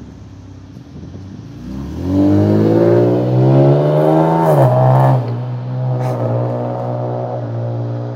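2014 Chevrolet Camaro's 3.6-litre V6 with Xhelerator aftermarket mufflers: exhaust idling, then revving up hard about two seconds in as the car takes off, the pitch climbing, dipping once at a gear change, then holding a steady, loud drone.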